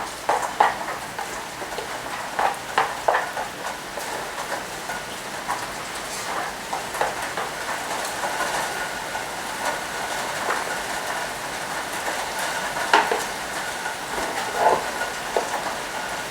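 Heavy rain falling steadily, with scattered drips and knocks against something close by.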